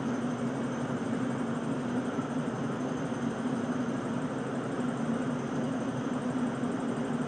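A steady engine drone with an even low hum, unchanging throughout.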